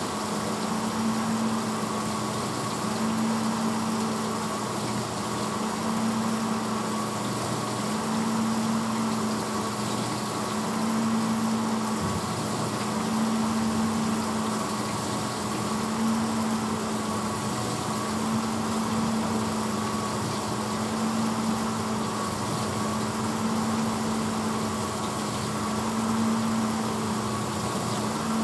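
1986 Hotpoint Potwasher dishwasher running mid-cycle: a steady motor hum that swells about every two seconds, under a constant hiss of water spraying.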